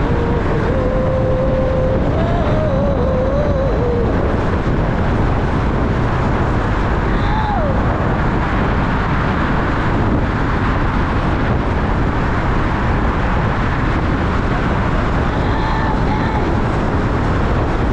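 Yamaha MT-07 motorcycle underway, its engine and road noise buried under heavy, steady wind rush on the rider's microphone.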